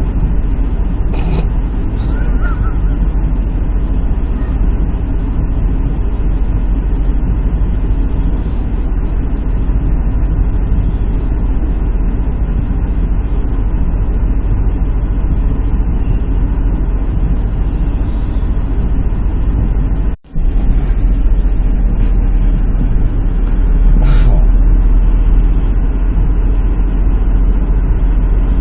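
Semi-truck diesel engine idling with a steady low rumble, with a few brief high-pitched squeaks or hisses, and a sudden drop to near silence for a moment about twenty seconds in.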